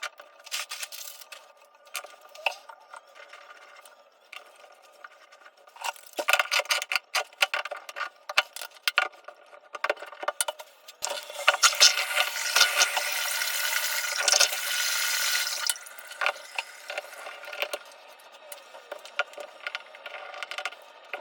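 Hand tools and metal shower-valve parts clicking and clinking during repair work, in irregular bursts, with a steady rushing noise for about four seconds in the middle that is the loudest part.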